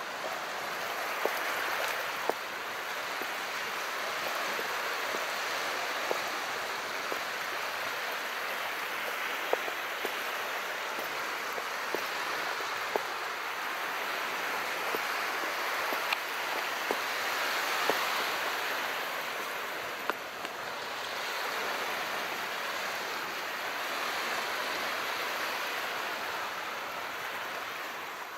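Calm sea: small waves washing in a steady hiss that swells and eases slowly every several seconds. Scattered sharp ticks sound through it.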